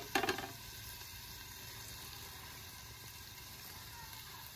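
Onions and tomatoes sizzling gently in a covered pan, a steady soft frying hiss after a brief louder noise right at the start.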